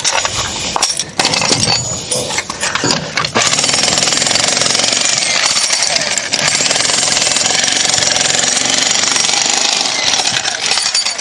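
Jackhammer hammering fast and steadily, starting about three seconds in after a few irregular knocks and bangs.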